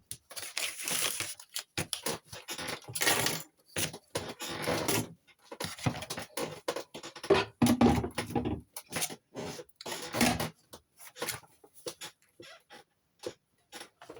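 Irregular rustling, scraping and clattering of objects being handled and cleared away by hand, in many short bursts of differing length.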